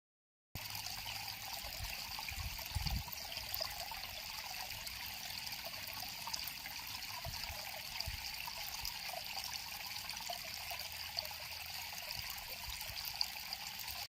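River water flowing and trickling steadily, starting abruptly about half a second in, with a few soft low thumps about three seconds in.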